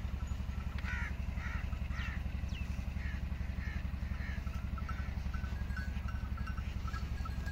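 A bird calling repeatedly, about two short calls a second for a few seconds, over a steady low rumble, with fainter chirping in the background.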